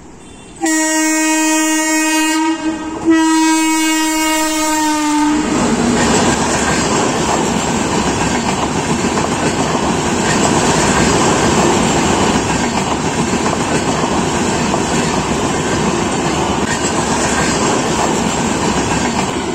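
An express train's horn sounds two long blasts, each about two seconds, held on one steady chord. The train then passes close at speed with a loud, steady rush of wheels on the rails.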